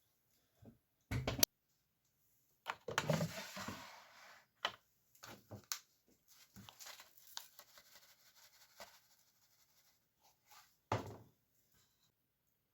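Intermittent knocks and clattering handling noises, with a sharp thud about a second in, a longer rustling clatter a few seconds later, and another thud near the end.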